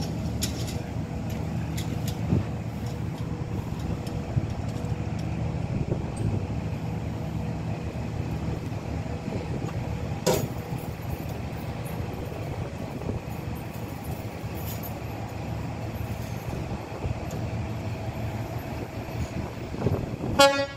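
Diesel engine of a Class 43 HST power car running with a steady low hum as the train approaches slowly, with one sharp click about halfway. Near the end a short horn blast from the train begins.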